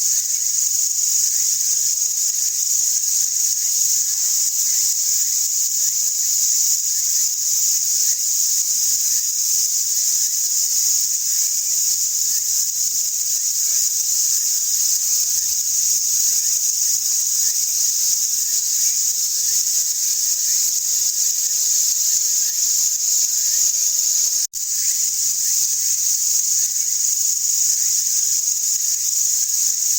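A dense, steady high-pitched insect chorus of summer field insects, unbroken apart from a momentary gap about 24 seconds in, with faint short chirps beneath it.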